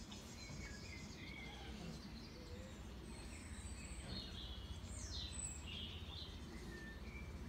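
Birds chirping outdoors, with short high calls and one call sweeping downward about five seconds in, over a steady low background hum.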